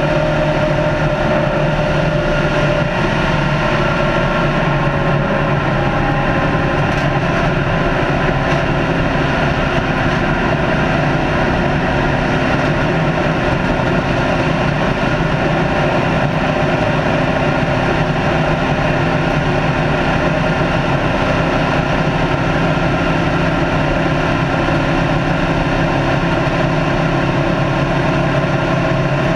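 Race car's engine running at a steady high speed under sustained throttle, its pitch holding nearly constant, with wind and road noise.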